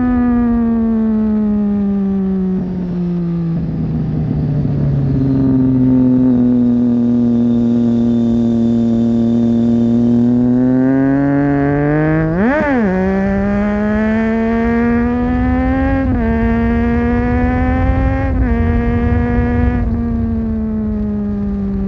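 Triumph Street Triple 675's three-cylinder engine through a Leovince 3-2 exhaust with dB-killer, on the move. Revs fall away as the bike slows, stay low for several seconds, then climb again with one sharp quick rev blip about halfway through. After that it pulls with the revs dropping at gear changes a couple of times near the end.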